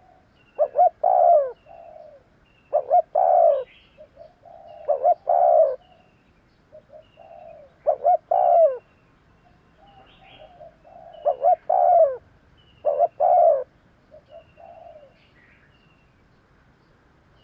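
Spotted dove cooing: six loud coo phrases, each with softer coos around it, coming every two to three seconds. A small bird chirps faintly with short high notes in between.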